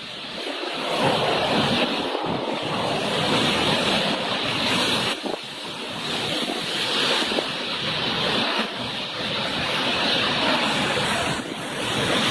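Cyclone-force wind gusting and buffeting the microphone: a continuous rushing noise that swells and eases in surges every few seconds.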